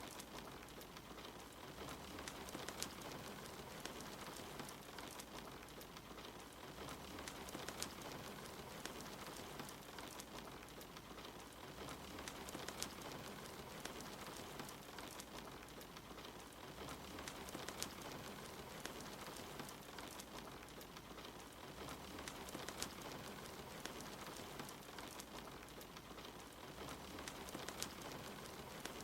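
Steady soft rain falling, with a wood fire crackling in scattered small pops over it.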